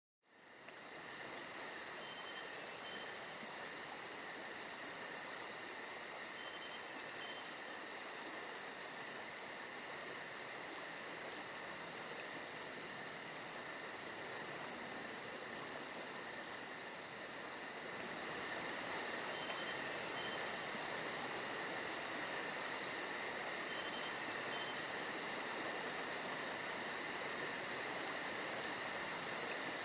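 A steady insect chorus of high, fast-pulsing chirps, growing a little louder about two-thirds of the way through.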